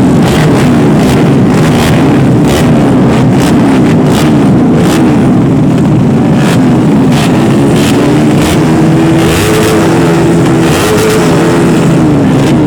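Loud racing motorcycle engines of a 200 cc class, revving up and down over and over, with one engine held at higher revs for a few seconds past the middle.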